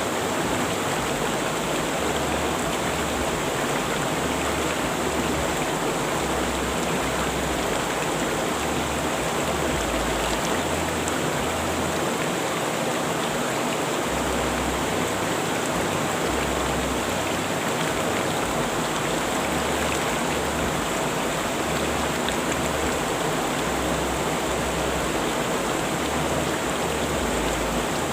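River water rushing over rocks in a steady, even roar of flowing water.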